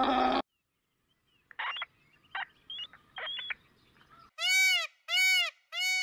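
Indian peafowl (peacock) calling three times near the end, loud high calls that each rise and fall in pitch. Before them come a short pitched animal call at the very start and a few brief calls in the middle.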